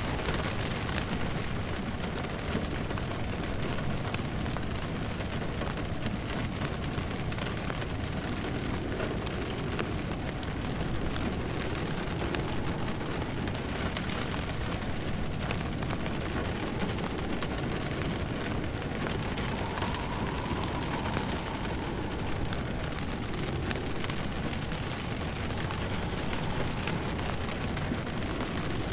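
Steady rain falling together with a crackling wood fire, many small pops and crackles over the even hiss of the rain. A faint wind howl rises and falls about twenty seconds in.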